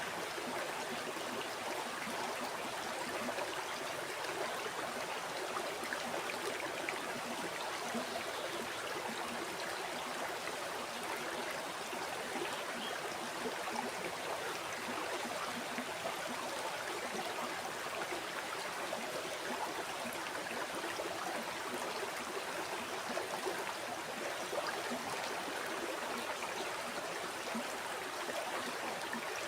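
River water flowing over rocks: a steady, even rushing with light gurgling.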